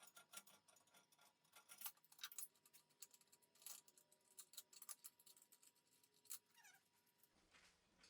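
Near silence, with faint scattered clicks and a faint steady tone in the background.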